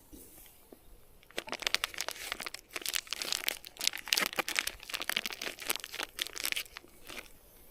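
Plastic food packaging crinkling and tearing as a pack of bratwursts is opened, a dense crackly rustling from about a second and a half in until shortly before the end.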